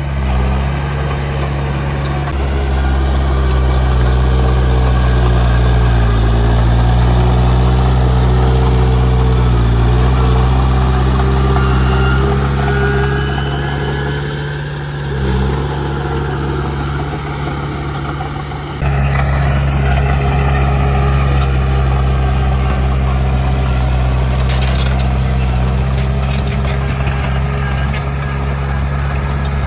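Diesel engine of heavy earthmoving machinery running close by, its pitch dipping and rising a few times as the load changes, with a sudden jump in loudness about two-thirds of the way through.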